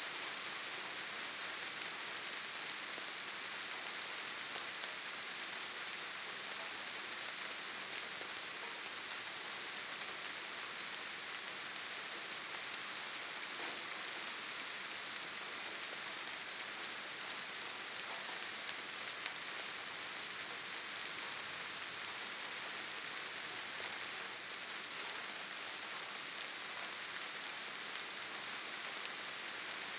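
Steady rain falling on a surface, an even hiss with faint individual drop ticks here and there.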